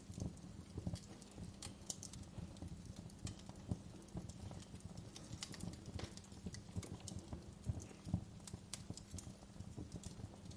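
Wood fire burning in a fireplace, crackling with many small irregular pops and snaps over a low rumble of flames.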